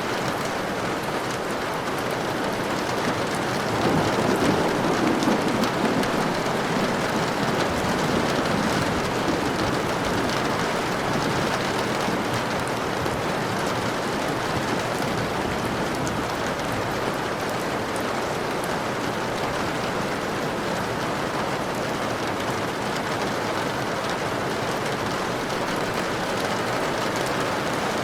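Steady rain falling on a surface, a constant even hiss of drops. About four seconds in, a deeper swell rises for a few seconds and then settles back.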